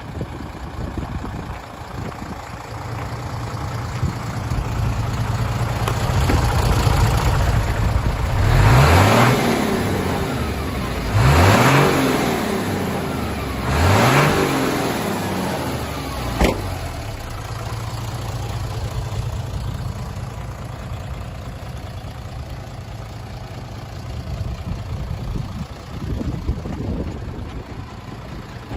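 Mitsubishi Mignon dump truck's 6D17 inline-six diesel idling, then revved three times in quick succession about a third of the way in, each rev rising and falling in pitch. A single sharp click follows shortly after the last rev, and the engine settles back to a steady idle.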